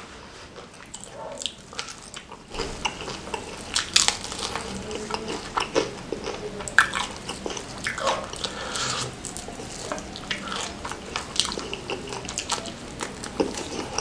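Close-miked wet chewing and lip-smacking of sambal-covered fried chicken, with many sharp irregular clicks. It picks up about two and a half seconds in, after a quieter start.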